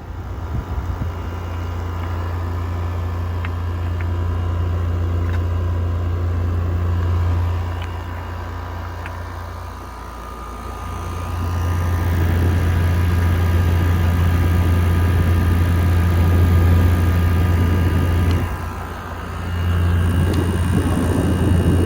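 Window air conditioner running: a steady low compressor hum with fan noise and a faint whine on top. The hum drops away briefly about nine seconds in and again near the end, then comes back louder.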